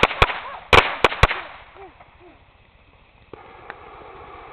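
Backyard consumer fireworks: a quick string of sharp bangs and pops in the first second and a half, then, about three seconds in, a steady hiss as ground fountains spray sparks.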